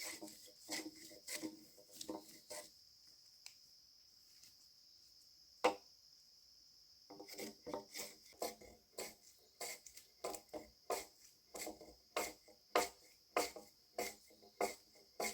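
Rhythmic rasping strokes of a hand tool on wood, about two to three a second, stopping for a few seconds midway except for one sharp click, then going on. A steady high insect chirr, typical of crickets, runs behind.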